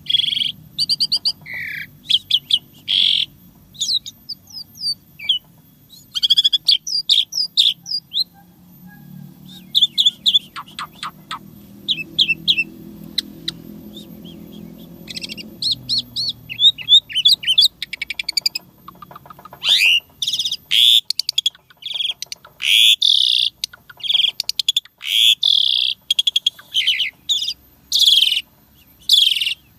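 Asian pied starling (jalak suren) singing a long, varied song of whistles, chirps and rapid trills packed with learned fill phrases. The notes come in quick clusters, densest and loudest in the second half.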